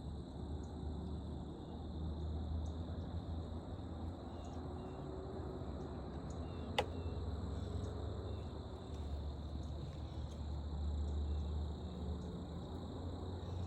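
Crickets trilling in one steady high-pitched drone over a low rumble, with a single sharp click about seven seconds in.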